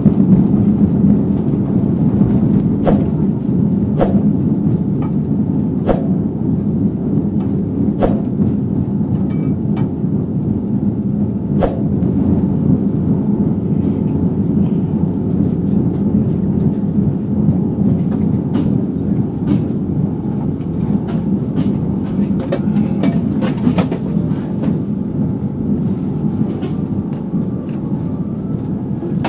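Steady low rumble of a passenger train running on rails, heard inside a 1996-built executive coach of the KA 80 Bangunkarta, with scattered sharp clicks of the wheels over rail joints and a dense run of them a little past the middle, typical of crossing switches in a station yard. The rumble grows a little quieter toward the end as the train slows arriving at a station.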